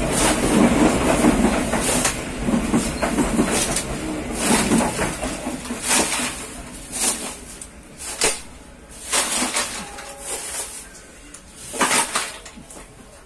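Passenger train coaches passing close by on the adjacent track, wheels rumbling and clacking over the rail joints. The rumble is loud at first and fades as the train pulls away, leaving spaced, ever fainter clacks.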